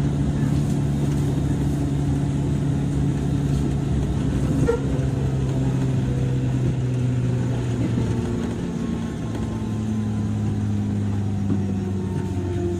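Running sound of a JR West 103 series electric train heard inside a motor car: a steady low hum from the DC traction motors and gears under the floor. About two-thirds of the way through, the tones begin to fall gradually in pitch as the train slows.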